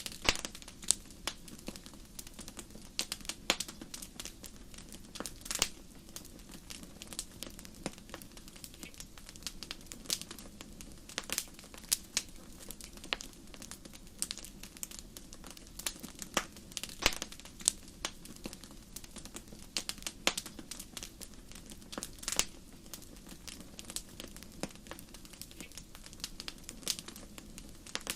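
Fireplace fire crackling: irregular sharp pops and snaps, several a second and some much louder than others, over a low steady hum.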